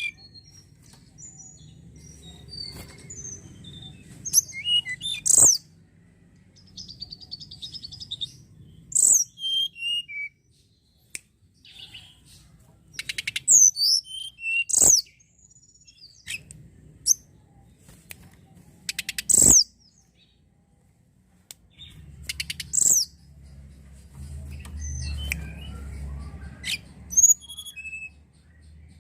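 Tledekan gunung songbird singing in short, varied bursts of high chirps, whistles and a rapid buzzy trill, with brief pauses between phrases. A few sharp clicks and a low rumble sit underneath.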